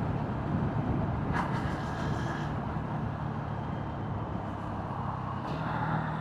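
Motorcycle engine running at low speed, a steady low hum that rises a little in pitch near the end.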